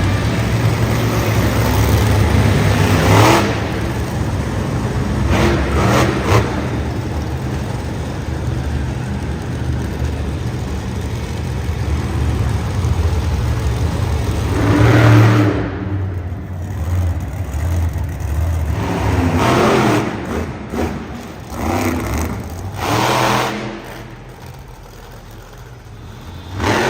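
Monster truck engine running and revving hard, with repeated loud surges of throttle and quieter stretches between them.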